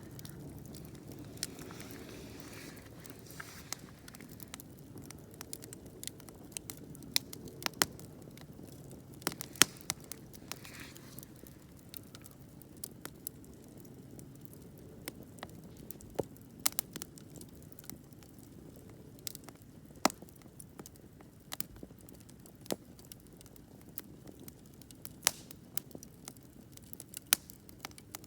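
Wood campfire crackling: irregular sharp pops and snaps over a low, steady hiss of burning.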